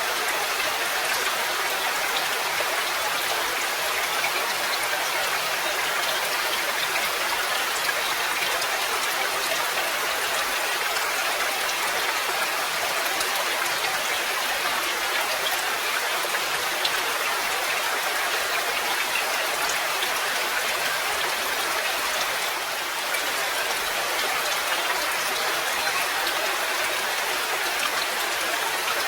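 Steady rain falling, an even hiss of many drops with little low rumble, holding one level except for a brief slight dip about 23 seconds in.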